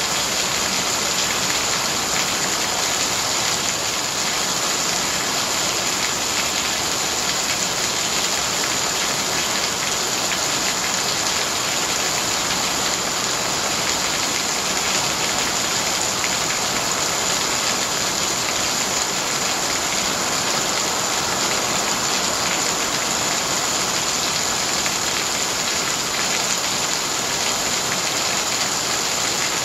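Heavy rain pouring onto paved ground, a steady dense splashing hiss with no letup.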